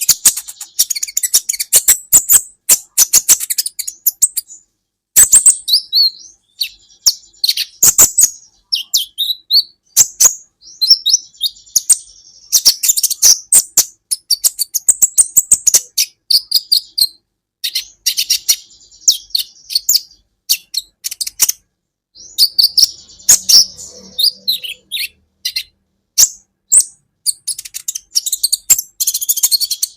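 Kolibri ninja sunbird singing: rapid high-pitched chirps and twittering phrases in bursts of a few seconds, with short pauses between them.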